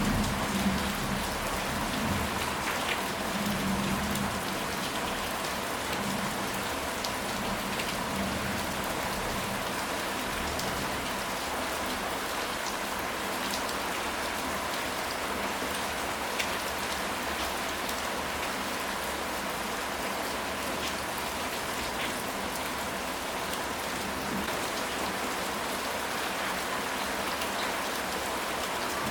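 Steady rain falling, with scattered single drops ticking through it and a low rumble in the first few seconds.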